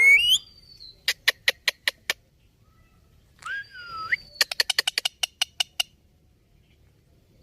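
Indian ringneck parrot calling: a wavering call ending at the start, a run of sharp clicks about a second in, a gliding whistle near the middle, then a faster run of clicks.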